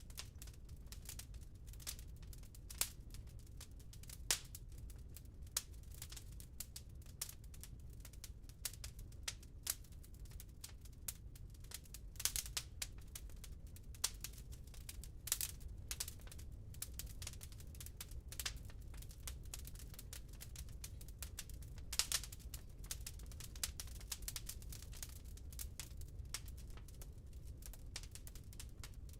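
Wood burning in a fireplace, crackling with irregular pops and a few louder snaps over a low steady rumble.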